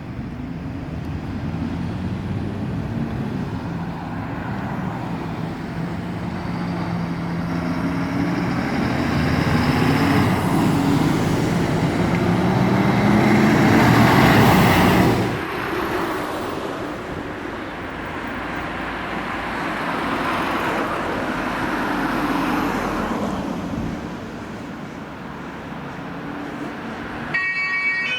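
Heavy fire-engine diesel engines pulling past on an emergency run, building to a loud peak about halfway through and falling off abruptly, then a second vehicle passing. Near the end a two-tone siren starts.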